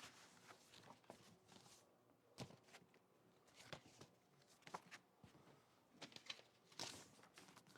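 Near silence: quiet room tone with a scatter of faint short rustles and light knocks, the loudest a brief rustle near the end.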